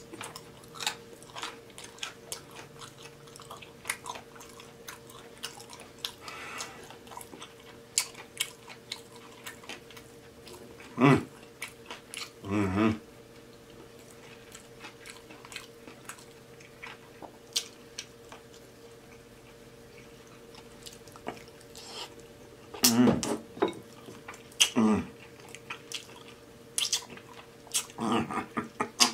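Close-miked chewing and wet lip smacking of a person eating glazed, saucy beef ribs, with frequent sharp mouth clicks throughout.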